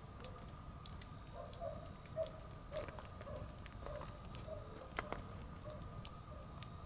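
Wood campfire burning with scattered sharp crackles and pops over a low rumble, the biggest pops about two and five seconds in. A faint run of short pulsing notes sounds in the background through most of it.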